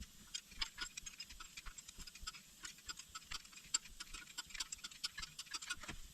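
Ratchet wrench clicking in quick, uneven runs of light metallic ticks, several a second, as bolts are worked on the engine.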